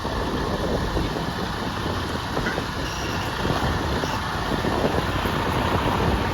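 Semi truck's diesel engine running steadily at low speed as the tractor-trailer is manoeuvred back toward a loading dock.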